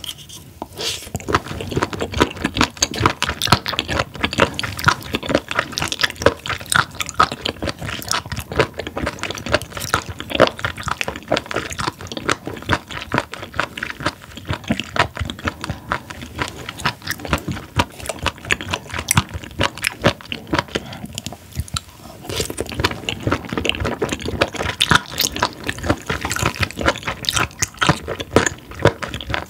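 Close-miked wet, crunchy chewing of raw spoon worm, a dense run of squelches and crisp clicks. It eases off briefly about two-thirds of the way through, then picks up again.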